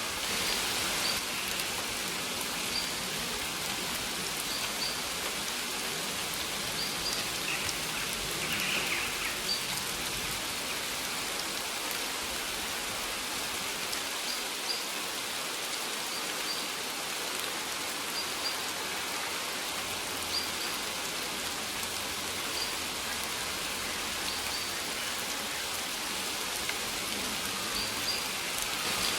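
Steady rain falling, an even hiss of drops hitting a surface. Short high bird chirps recur every second or two over it.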